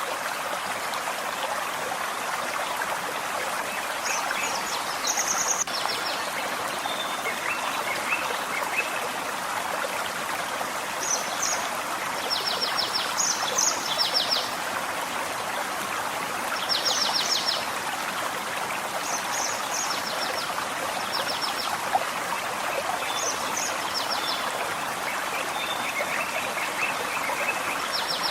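Forest stream running steadily. Birds sing over it every few seconds: short high calls and quick rapid trills.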